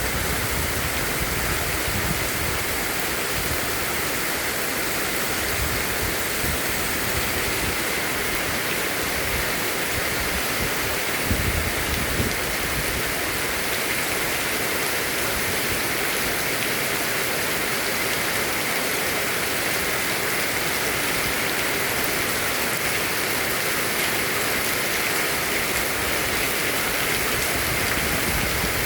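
Heavy rain pouring down in a steady, dense hiss. A couple of brief low thumps come about eleven and twelve seconds in.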